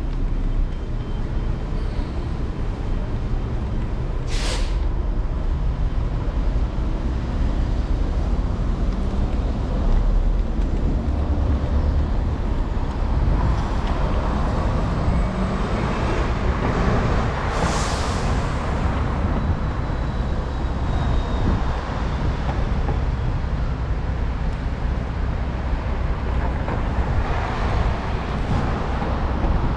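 City street traffic heard from a moving electric scooter: a steady low rumble with passing vehicles swelling up and fading. Two short, sharp hisses come about 4 and 18 seconds in.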